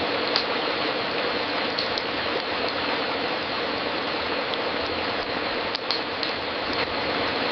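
Fireplace fire crackling: a steady hiss with scattered sharp pops, several of them close together near the end.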